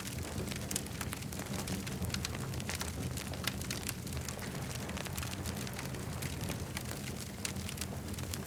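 Campfire crackling: frequent sharp snaps and pops, irregular and close together, over a steady low rumble.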